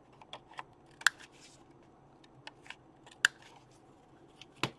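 Handheld corner rounder punch clicking as it rounds the corners of paper card, with two sharp snaps about two seconds apart and another near the end, among lighter clicks.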